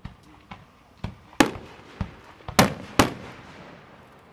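Aerial firework shells launching and bursting: a string of about seven sharp booms, the loudest in the middle, each with an echoing tail.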